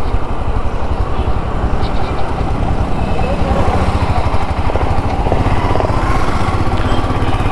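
Royal Enfield Himalayan's single-cylinder engine and exhaust running steadily while the motorcycle is ridden on the road.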